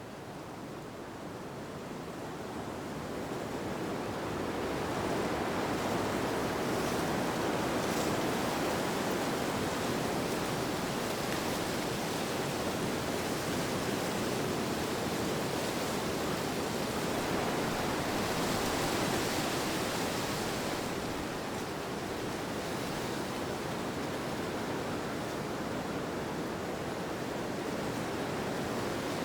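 Wind blowing as a steady rushing wash with no distinct gusts, swelling over the first few seconds and easing off a little about two-thirds of the way through.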